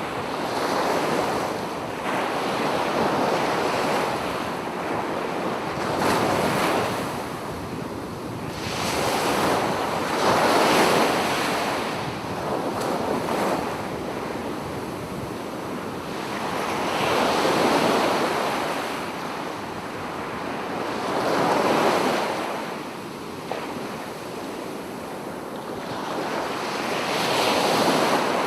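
Sea waves breaking on a beach, the surf swelling and falling away every few seconds.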